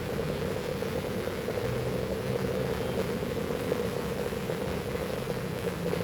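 Heavy rain falling in a steady, even hiss, with a faint low hum underneath.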